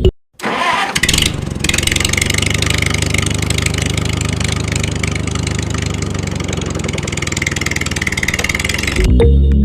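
A DIY mini tractor's motor starts up in the first second or so, then runs steadily. It cuts out near the end as music comes back.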